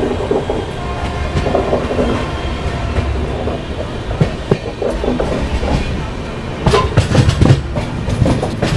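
Jan Shatabdi Express passenger train running on the rails, heard from on board as a steady low rumble. Late on, a run of sharp knocks as the wheels clatter over the track.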